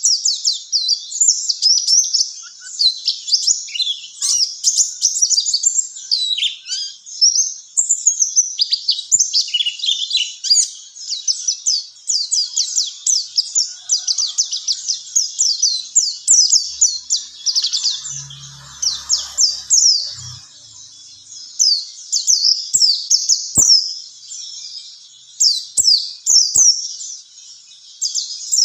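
White-eye (pleci) singing a long, rapid run of high, thin chirps and twitters with hardly a pause.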